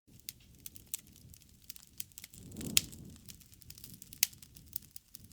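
Campfire crackling: scattered sharp pops and snaps of burning wood over a low rumble, with a louder pop a little under three seconds in and another about four seconds in.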